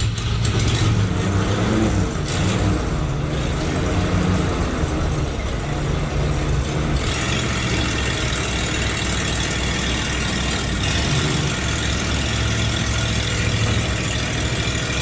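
Ford 302 V8 running at idle, its engine speed shifting up and down a little a few seconds in and again near the end.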